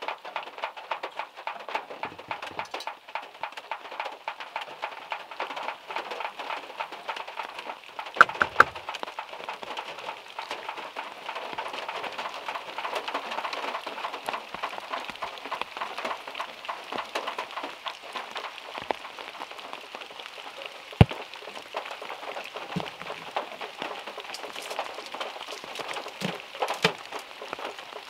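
Rain pattering steadily on a small car's roof and body, with a few louder single knocks from bigger drops falling off the trees, the loudest about 8 and 21 seconds in.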